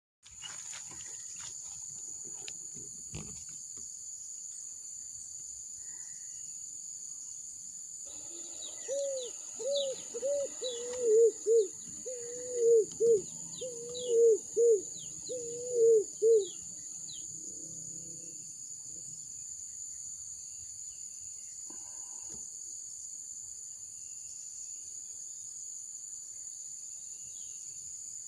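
Insects keep up a steady high-pitched drone. About a third of the way in, a bird gives a run of about fifteen low hooting notes for some nine seconds, each rising and falling, some in quick pairs. Fainter, higher chirps from other birds sound over it.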